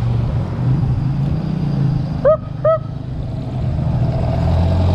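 Steady road and wind rumble while riding, broken a little over two seconds in by two short, rising-then-falling yaps like a dog's barks, about half a second apart. A motor vehicle's engine grows louder near the end.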